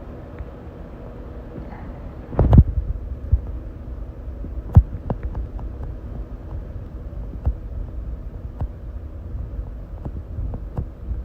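Low steady rumble of a vehicle towing a loaded trailer, heard from inside the cab. There are a pair of loud clunks about two and a half seconds in, another sharp knock near five seconds, and scattered lighter knocks after.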